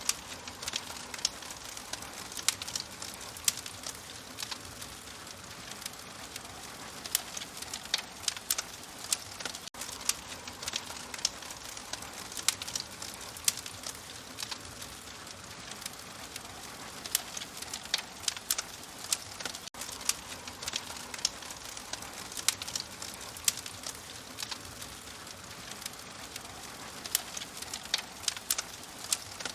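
Wood fire crackling, with frequent sharp, irregular pops and snaps over a steady soft hiss.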